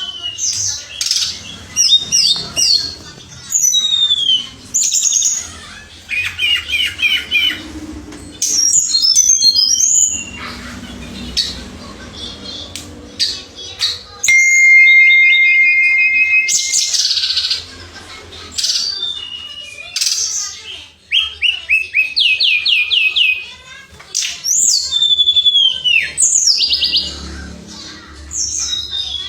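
Tledekan (blue flycatcher) song: a run of varied whistled phrases, fast rattling trills and slurred rising and falling notes, with one long steady whistle held for a couple of seconds about halfway through.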